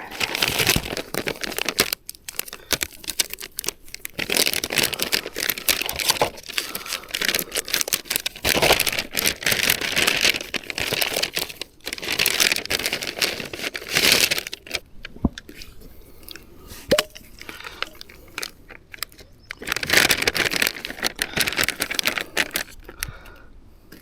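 Plastic MRE pouches crinkling and tearing in repeated bursts as they are handled and opened.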